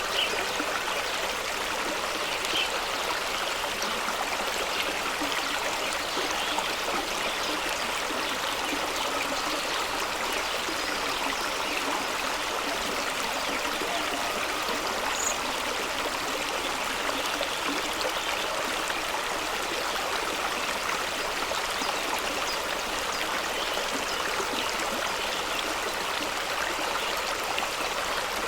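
Fast-flowing stream rushing and splashing over rocks: a steady, even rush of water with small splashes.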